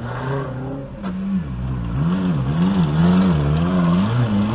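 Off-road 4x4's engine being revved up and down in quick surges, its pitch rising and falling several times a second.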